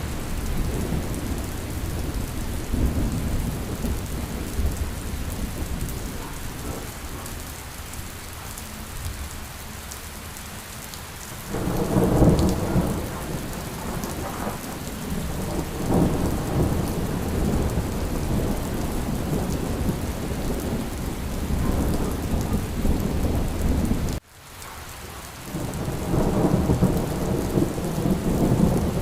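Steady rain falling, with rolling thunder rumbling through it and swelling several times, loudest about twelve seconds in and again near the end. The sound briefly cuts out about three quarters of the way through.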